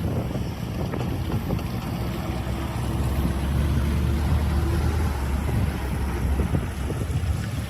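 Excavator's diesel engine running with a steady low drone, a little stronger in the middle.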